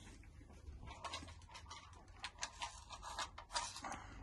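Handling noises at a workbench: a string of light, irregular clicks and scratches as small parts and a plastic kit case are picked up and handled.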